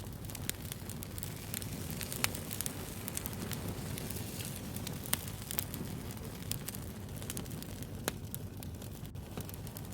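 Campfire burning with a steady low rush and irregular sharp crackles and pops of burning wood, a couple of louder pops about two and five seconds in.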